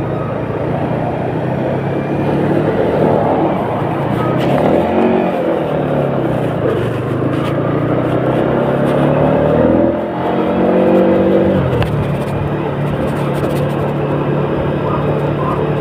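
A motor vehicle's engine running steadily, its pitch rising and falling a couple of times as it revs.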